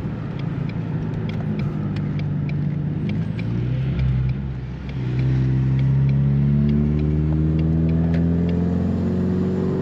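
Car engine running with a low rumble and scattered light ticks, then from about halfway through accelerating, its pitch rising slowly and steadily.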